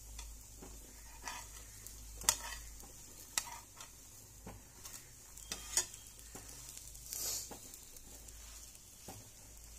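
Egg omelette frying in mustard oil in a nonstick frying pan: a steady, soft sizzle. A metal spatula scrapes and taps against the pan several times as the omelette is folded into shape.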